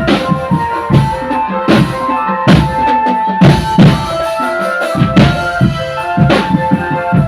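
Marching drum band playing: a steady beat of bass and snare drums, with a melody line carried over it.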